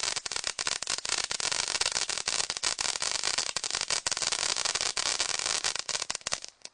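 Cylindrical fountain firework spraying sparks with a steady hiss, sputtering with many short breaks as it burns out, then stopping abruptly near the end.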